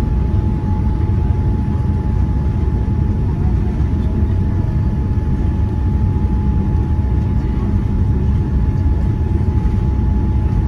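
Steady cabin noise inside a Boeing 787-9 airliner in flight: a constant low rumble of engines and airflow with a faint steady whine above it.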